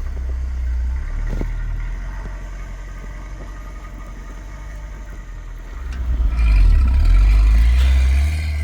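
Off-road vehicle's engine running at a low steady pace, then revved hard for about two seconds near the end.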